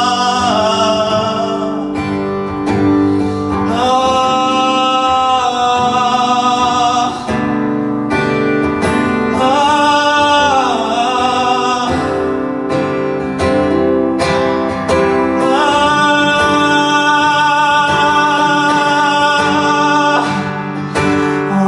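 Live acoustic-guitar song with a male voice singing long, wordless held notes with vibrato.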